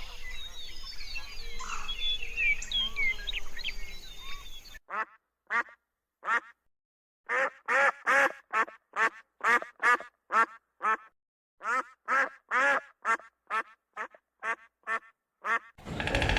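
A duck quacking: a long run of short, nasal quacks, often two or three in quick succession, about twenty in ten seconds. Before it comes a few seconds of a busy chorus of mixed bird calls over a background hiss, and a steady loud rumbling noise cuts in near the end.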